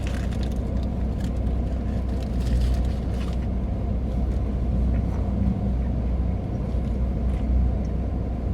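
Steady low rumble of a car engine idling, with a few faint clicks in the first few seconds.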